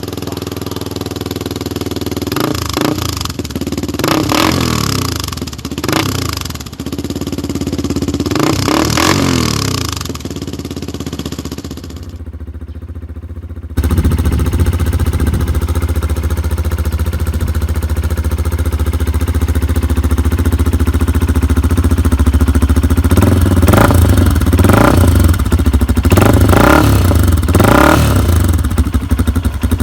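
Benelli TNT 135's small single-cylinder four-stroke engine, through a straight-pipe header with no catalytic converter and an aftermarket muffler fitted with a db killer, idling and being blipped in short revs. About halfway through the sound cuts to a louder idle, and near the end come several quick revs in a row.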